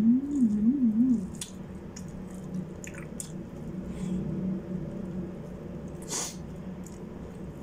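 A person eating with the mouth closed: a short wavering hummed "mmm" in the first second, then soft chewing with wet mouth clicks and smacks, and a brief breathy hiss about six seconds in.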